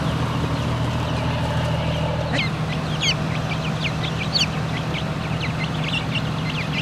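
Birds chirping in rapid, high, short calls, some rising and some falling in pitch, starting about two seconds in. A steady low drone runs underneath, such as engines running at a fire scene.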